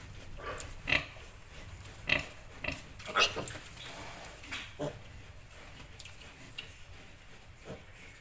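Piglets giving short squeals about once a second, the loudest about three seconds in, with quieter grunts between.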